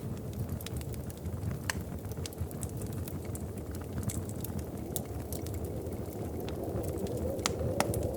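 Wood fire crackling in a fireplace: irregular sharp pops and snaps over a low steady rumble that grows a little louder near the end.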